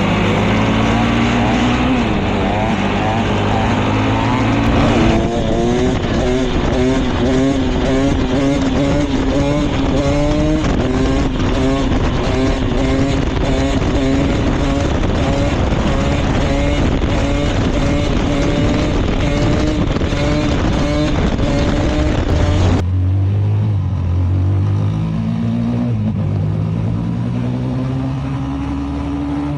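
Motorcycle engine running hard, its pitch climbing again and again as it is revved, under a loud rush of wind on the microphone. About three-quarters of the way through, the wind rush stops and the engine drops to lower, slower revs.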